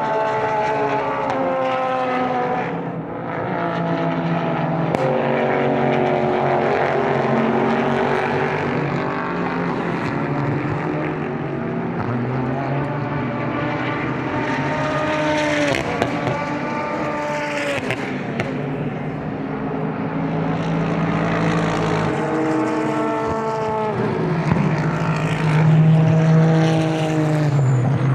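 Super GT race cars going by one after another at racing speed. Their engine notes overlap, each pitch rising and falling as the cars pass and shift gears, with no break between them.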